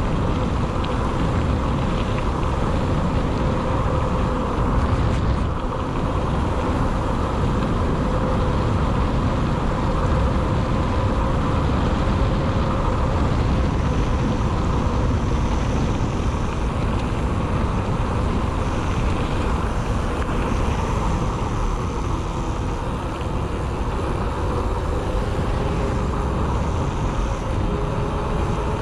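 Mountain bike rolling on tarmac: a steady hum from the tyres over wind rushing on the microphone.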